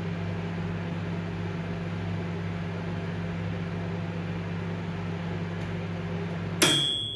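Hisense microwave oven running with a steady hum, which cuts off suddenly near the end with a click and a single short beep.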